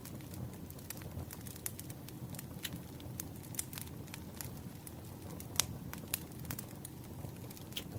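Campfire crackling: a steady low rumble of burning wood with irregular sharp pops and snaps, the loudest a little past halfway.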